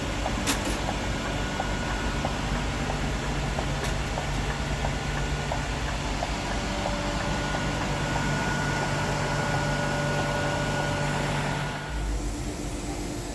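Eletra electric conversion bus on a Scania chassis running, heard as a steady hum with a few held tones from the electric drive and a light, regular ticking. The sound changes abruptly near the end.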